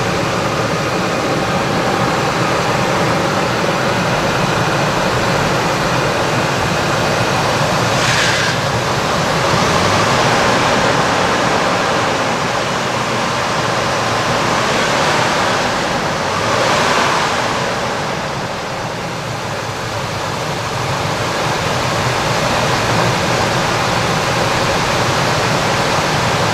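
Ford 5.4 V8 running after a water pump replacement, heard up close as a loud, steady rush of engine noise, with a brief hiss twice, about 8 and 17 seconds in. The engine is running with a misfire.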